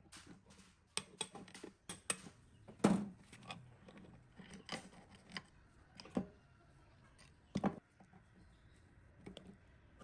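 Irregular sharp clicks and knocks of hand tools and small metal parts being handled, with no steady rhythm; two knocks stand out, about three seconds in and again later.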